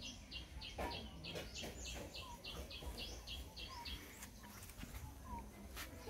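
Faint birdsong: a bird repeating a short high note about three times a second, stopping about three and a half seconds in, with a few faint, short, lower calls scattered through.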